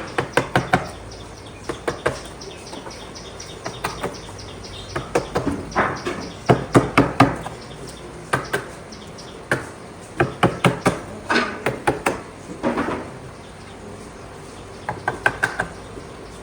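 Hammering on wood: sharp knocks in quick runs of three to six strikes, with short pauses between the runs.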